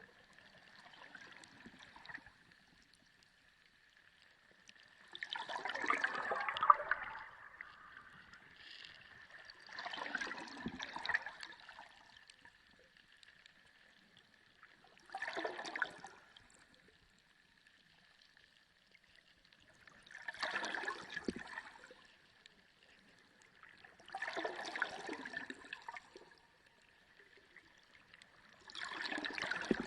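Underwater sea sound: surges of gurgling, rushing water come about every four to five seconds, each lasting a second or two, over a faint steady high tone.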